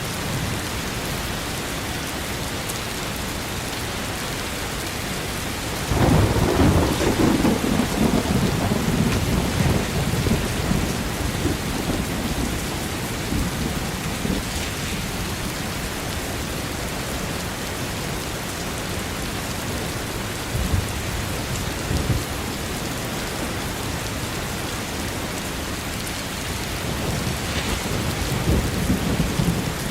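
Steady heavy rain with thunder: a loud low rumble of thunder breaks in about six seconds in and slowly dies away, and another rumble builds near the end.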